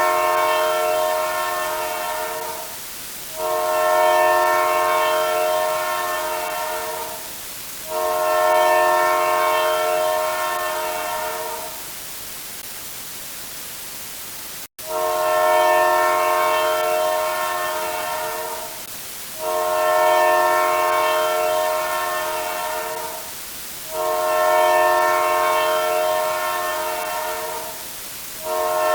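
Multi-note train air horn blasting over and over, as a repeated sound effect: long blasts of about three seconds each, sounding as one chord and each fading a little, with short gaps between them and a longer pause near the middle.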